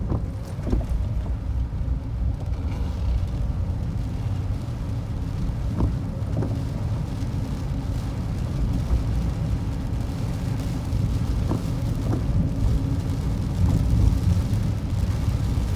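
Strong typhoon wind buffeting the microphone: a steady heavy rumble, with the noise of rough seas beneath it.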